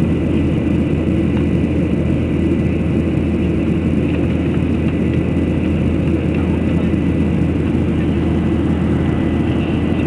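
Steady drone of a fixed-wing airplane's engines during takeoff, deep and unchanging.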